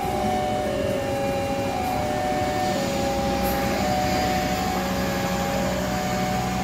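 Long-distance passenger train of stainless-steel coaches passing steadily, a continuous rolling noise of wheels on rail.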